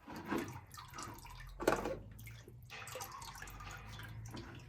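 Engine oil running and dripping into a drain pan as the old oil filter comes off a John Deere 790 compact tractor's diesel, with a sharp knock about 1.7 seconds in and a steady low hum underneath.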